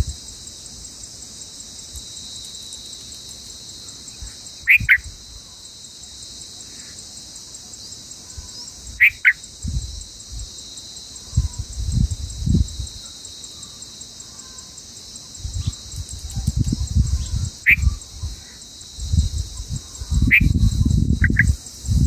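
Short, sharp bird chirps, about five spread through, over a steady high insect drone. Irregular low rumbling bursts come and go, heaviest in the second half.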